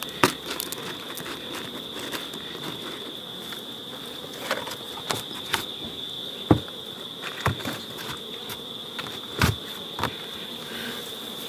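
An insect trilling on one steady high note without a break, with several scattered sharp clicks and knocks over it.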